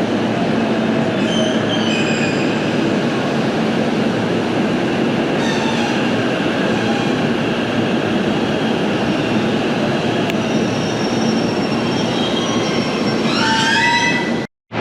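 Limited express Kaiji train running on the rails: a steady rumble with a constant low hum, and several high squealing tones from the wheels or brakes about a second before the end. The sound cuts out abruptly just before the end.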